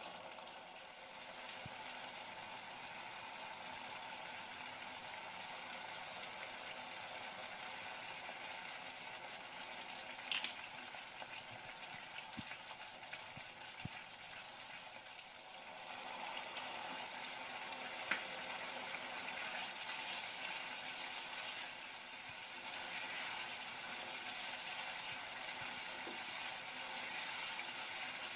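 A thick masala paste frying and sizzling in oil in a nonstick kadai as it is stirred with a wooden spatula, cooked until the oil separates. There is a steady hiss with two short sharp clicks, one about ten seconds in and one about eighteen seconds in.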